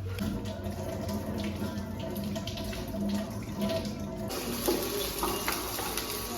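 Soft background music, then a kitchen tap turned on about four seconds in, water running steadily into a sink.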